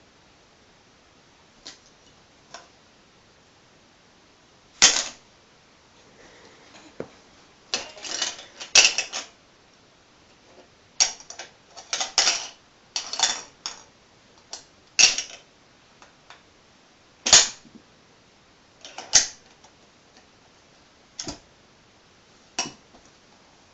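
Hard plastic pieces of a LeapFrog Fridge Farm magnetic animal toy knocking and clacking. There are irregular sharp knocks, some single and some in quick clusters, the loudest about five seconds in and again near seventeen seconds.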